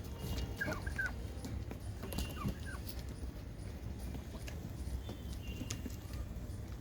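Birds calling: a short group of falling calls about half a second in and another about two seconds in, with scattered clicks and a few brief high chirps over a steady low rumble.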